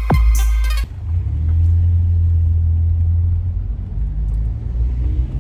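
Intro music cuts off about a second in, and a car engine idles steadily with a low-pitched exhaust note, on a car fitted with a muffler delete.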